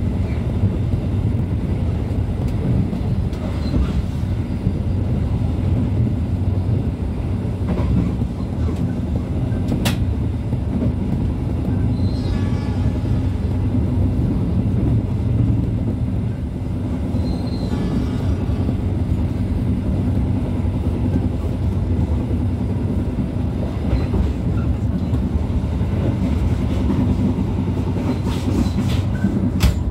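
Passenger train rolling along the rails: a steady low rumble of the carriage and its wheels, with one sharp click about ten seconds in.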